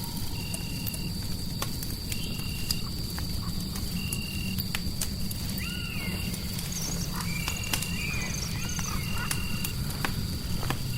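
Ambience soundscape: a fireplace crackling with scattered sharp pops over a low rumble and a white-noise bed, with a steady high whine and a short, flat chirp repeating about every one and a half seconds. A few rising-and-falling calls come through about halfway in.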